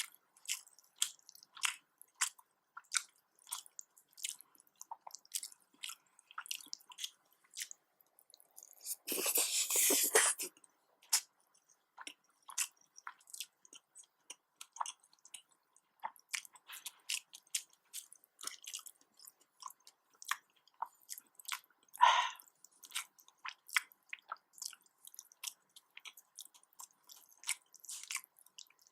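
Close-miked mouth sounds of someone eating nasi dagang: chewing and smacking, heard as a run of short wet clicks. About nine seconds in, a noisy rustle lasting about a second and a half is the loudest thing, and a short, louder smack comes about two-thirds of the way through.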